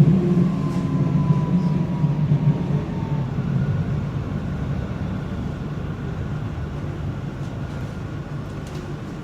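Frankfurt U-Bahn train running on the rails, its low rumble and rail noise growing steadily quieter. A faint whine falls slightly in pitch during the first few seconds.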